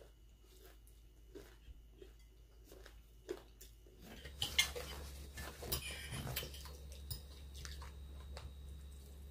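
Close chewing and crunching of crispy fried fish: a run of short crunches, with louder clicks and clatter from about four seconds in.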